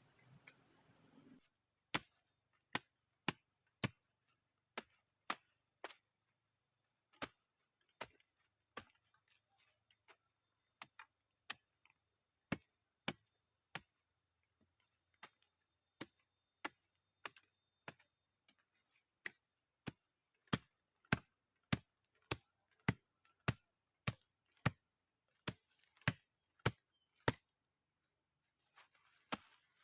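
Chopping with a blade: a series of sharp strikes, about one to two a second, thinning briefly in the middle and coming faster in the second half. A faint, steady high-pitched whine runs under the first two-thirds.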